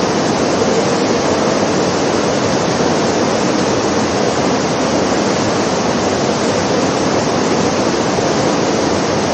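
Steady, loud downpour of indoor artificial rain, water falling from a ceiling grid onto the floor of a rain installation.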